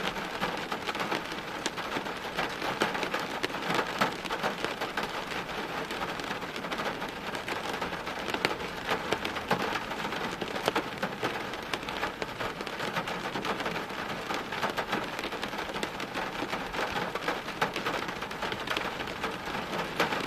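Steady heavy rain falling, with many individual drops ticking sharply on hard surfaces over a constant hiss.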